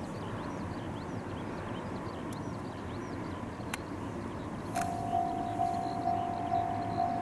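Railway level-crossing warning bell starting up about two-thirds of the way in, ringing a steady pitched clang about twice a second: the crossing is signalling an approaching train. Before it there is only open-air background with many short high chirps.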